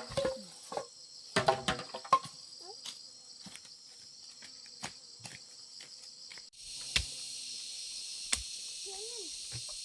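Steady high-pitched chirring of an insect chorus, with scattered short knocks and taps; the chorus becomes abruptly louder about two-thirds of the way through.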